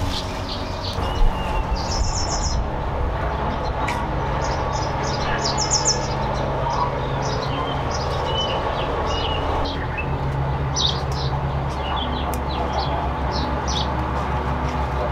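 Birds chirping and calling: many short high chirps and a few quick trills, over a steady low hum.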